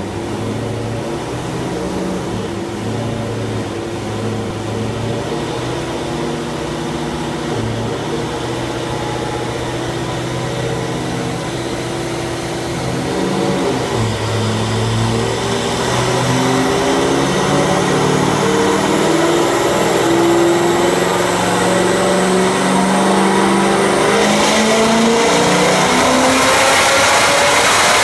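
Cammed 2006 Corvette LS2 V8 with long-tube headers running on a chassis dyno: it runs steadily at low speed at first, then about halfway through goes to full throttle for a dyno pull, getting louder and climbing steadily in pitch, with a high whine rising along with it.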